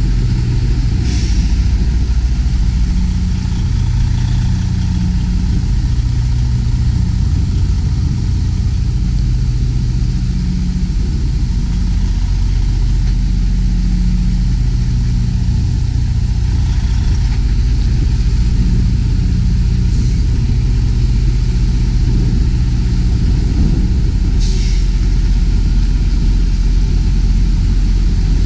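Semi truck's diesel engine running at a low, steady idle while the rig backs slowly. Four short hisses of air are heard, the first about a second in and the other three in the second half.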